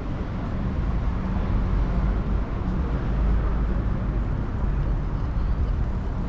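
Steady low rumble of city street traffic, heard from a bicycle riding along the street.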